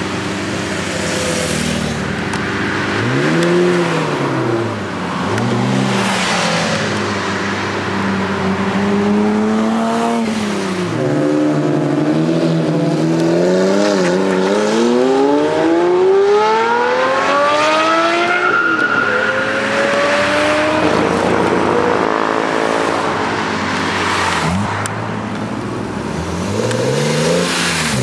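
Sports car engine and exhaust idling, blipped twice, then revving up in a long climbing pull as the car accelerates away; more revving rises near the end.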